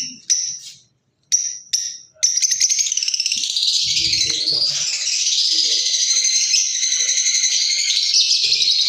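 Lovebirds chattering: a few short, separate high calls in the first two seconds, then a dense, unbroken stream of shrill chirps.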